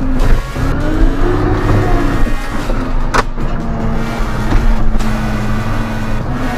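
Tractor engine running under load, its revs rising and falling, with a sharp knock about three seconds in.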